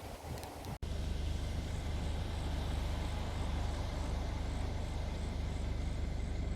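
A car engine running steadily, a low even hum heard from inside the car. It starts abruptly just under a second in, and a faint high tick repeats a few times a second over it.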